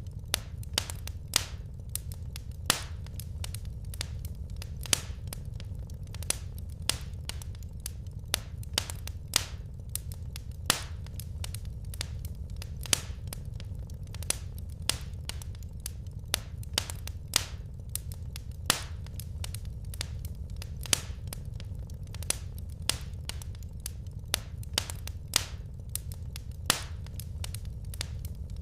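Wood fire crackling in a fireplace: irregular sharp pops and snaps, a few each second, over a steady low rumble of the flames.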